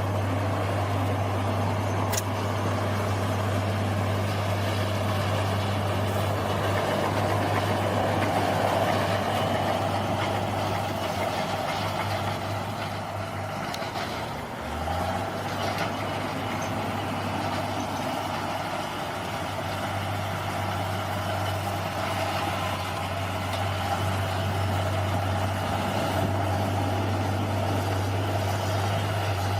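Bulldozer's diesel engine running steadily under work, its low note dipping briefly about halfway through before picking up again. A single sharp click about two seconds in.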